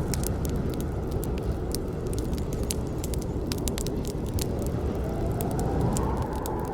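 Wood campfire burning with a steady low rumble and irregular sharp crackles and pops. A faint wavering whistle rises in over the last couple of seconds.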